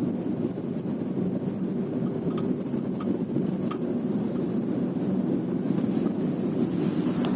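Nissan Sunny FB15 on the move, a steady low rumble inside the cabin with a few faint short knocks at irregular moments: the unexplained knock from the rear of the car.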